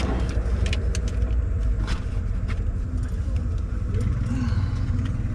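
A car running: a steady low rumble with a few scattered clicks, swelling slightly in the lower range a little after the middle.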